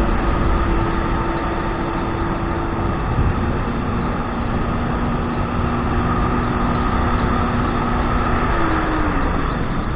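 Kawasaki 1200 jet ski engine running at steady speed under a rush of wind and water noise, its pitch dropping about nine seconds in as it eases off.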